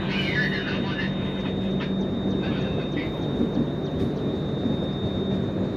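Running noise of a moving passenger train, heard from an open coach doorway: a steady rumble and rush of wheels on rail with a thin high tone running through it.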